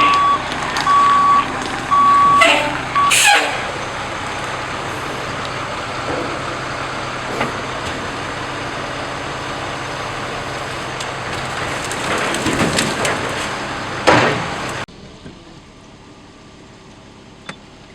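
A truck's backup alarm beeps at a steady pace and stops about three seconds in, over the steady noise of a running truck. About fifteen seconds in, the sound drops abruptly to a low background hum.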